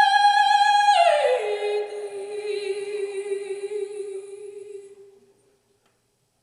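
Female operatic voice singing unaccompanied: a high note held, then a slide down about an octave to a lower note that is sustained with light vibrato and fades out about five seconds in.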